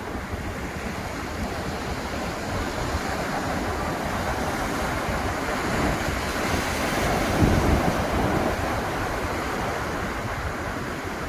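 Ocean surf breaking on a beach, a continuous wash of waves that swells to its loudest about seven seconds in, then eases.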